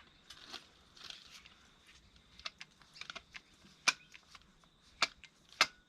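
Hand grease gun being worked on the grease fittings: a scattered run of small metallic clicks with three louder, sharper clacks, as the gun's grease cartridge runs empty.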